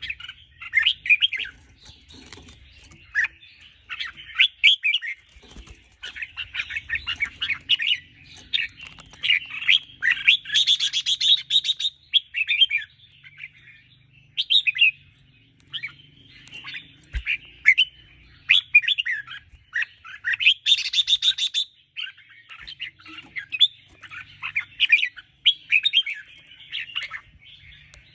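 Red-whiskered bulbul singing: a run of short, quick warbled phrases repeated with brief pauses, with fuller, denser bursts about ten and twenty seconds in.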